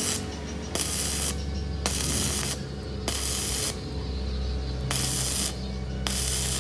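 Hydraulic press workshop machinery running with a steady low hum, while bursts of hissing come and go about every second or so, five times.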